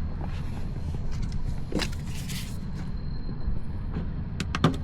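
Plastic interior dash trim being pried loose with a trim tool: a few sharp clicks and a short scrape as its clips let go, with a quick run of clicks near the end, over a low steady background rumble.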